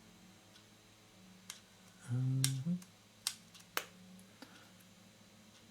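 A few sharp, separate clicks and taps from small lens parts and tools being handled on the bench, with a short hummed 'mm' from the repairer about two seconds in.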